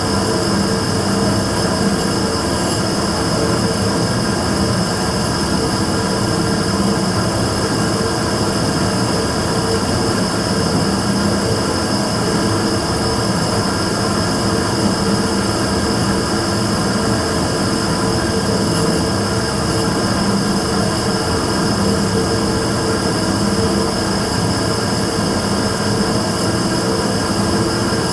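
Immersion tube burner running steadily: a constant combustion noise with a low hum and a high whine held throughout, the noise its owner calls abnormal.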